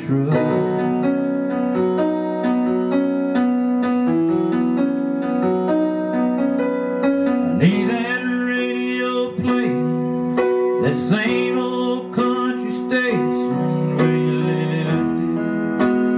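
Electric keyboard playing sustained piano chords in an instrumental passage of a country ballad.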